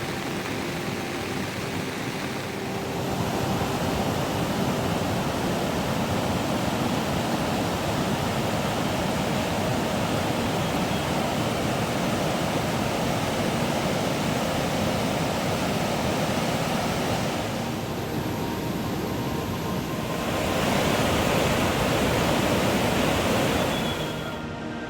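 Heavy monsoon rain pouring down in a steady hiss. It gets louder about three seconds in and again near the end, then eases just before the end.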